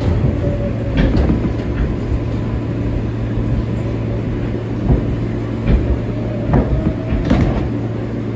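R143 subway car running at speed: a steady rumble and low hum, with several sharp clacks of the wheels over rail joints.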